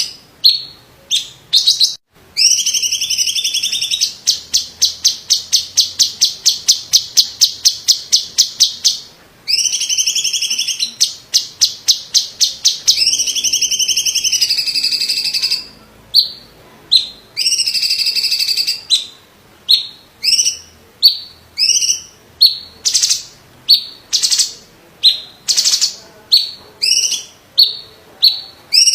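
Cucak cungkok, a leafbird kept as a songbird, singing loudly and continuously. Long rasping high notes alternate with a fast machine-like series of about a dozen notes a second and short sharp chirps.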